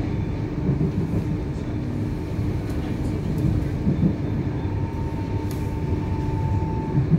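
Cabin noise on board an 8520 class DART electric train, heard from inside the carriage: a steady low rumble and hum of the running train. A faint thin whine joins about two-thirds of the way through and stops shortly before the end.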